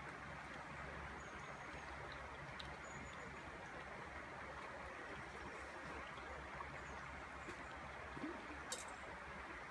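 Steady rush of a shallow river running over cobbles. There are a couple of faint high chirps early on and a sharp click near the end.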